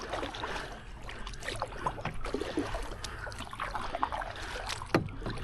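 Double-bladed kayak paddle stroking from a solo canoe, the blades splashing and dripping water in an uneven run of small splashes. There is one sharp knock about five seconds in.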